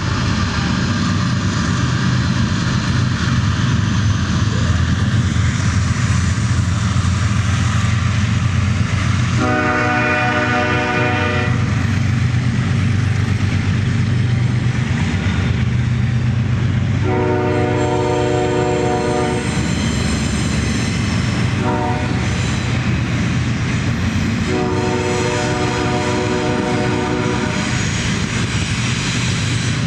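Diesel locomotive running with a steady low engine drone, its air horn sounding the long-long-short-long grade-crossing signal.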